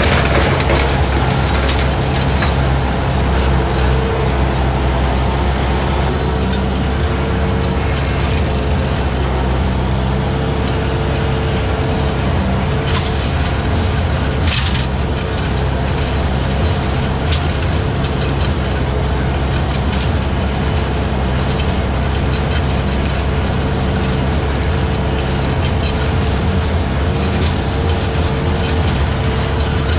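Skid steer engine running steadily with a 72-inch brush cutter attachment working through long grass and brush, with a sharp crack about halfway through.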